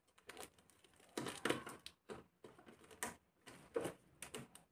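Scattered light clicks and short crackles of adhesive tape being handled and pulled from its roll for a plastic refrigerator drawer repair, at an uneven pace.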